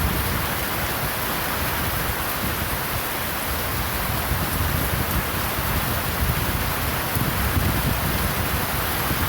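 Heavy rain pouring steadily, with a low, unsteady rumble underneath.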